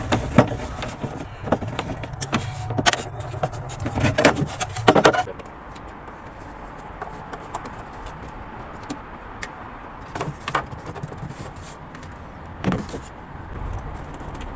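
Clicks, knocks and rattles of a refrigerator freezer's inner cover being worked loose and taken off to reach the fan motor, dense for about five seconds, then only a few scattered clicks over a quiet steady background.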